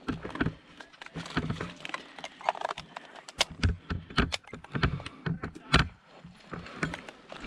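Footsteps moving quickly over the ground, irregular thuds about two to three a second, with loose gear rattling and clicking at each step.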